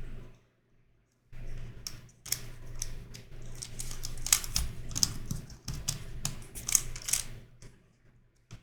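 YuXin Corner Helicopter 2x2 plastic twisty puzzle being turned quickly by hand: a dense run of clicking turns starts about a second in and dies away near the end, with one last click.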